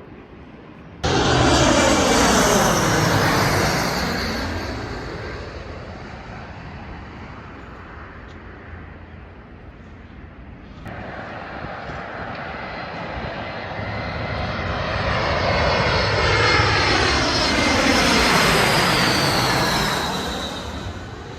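Jet airliner passing low overhead, its engine noise loud at first and then fading, with a gliding, sweeping tone as it goes by. After an abrupt cut about ten seconds in, a second jet airliner's noise builds to a peak and then fades near the end.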